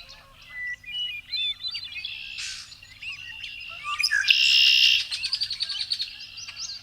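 Several songbirds singing at once: short chirps and arched whistled notes. A loud, rapid, dense trill a little past four seconds in is the loudest part.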